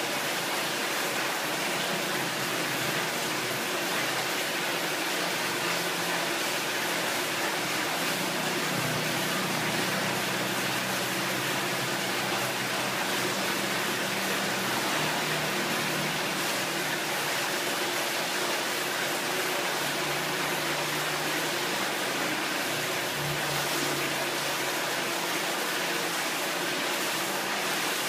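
Graphic waterfall water curtain: many streams of falling water splashing steadily into the basin below, an even rushing noise.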